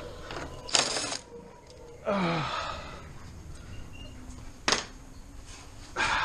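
A man sighs and breathes out heavily, with one short falling groan. A single sharp click comes about four and a half seconds in.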